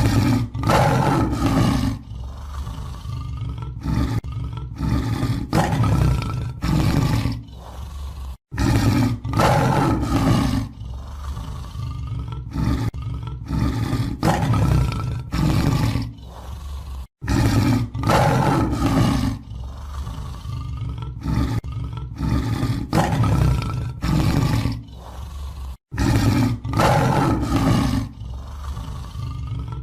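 Large animal roaring: a series of deep, loud roars and growls. The same stretch repeats about every eight and a half seconds, each time starting after a sudden cut.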